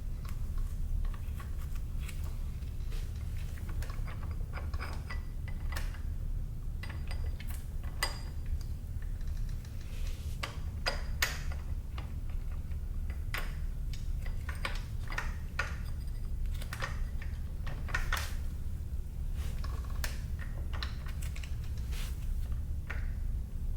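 Irregular clicks and metallic clinks of hand tools and parts being handled during work on a dirt bike, over a steady low hum.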